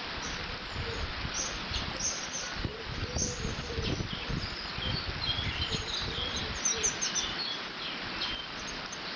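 Water rushing steadily through a beaver dam, with small birds chirping over it, most busily in the middle. Low, uneven rumbles of wind hit the microphone.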